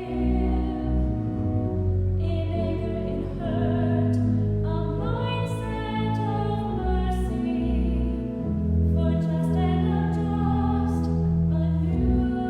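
Church music: singing with instrumental accompaniment in long held chords over a sustained bass.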